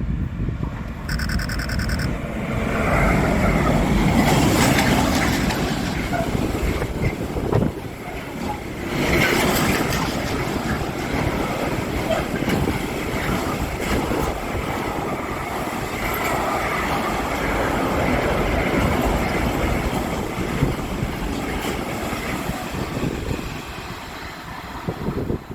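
A train passing close by at speed: a long, loud rush of wheels on rail and air noise, swelling twice early on, after a short high tone about a second in.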